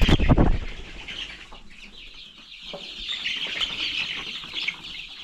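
A flock of young chicks cheeping continuously in a brooder, a dense chatter of high peeps. Right at the start there is a loud short rustling knock.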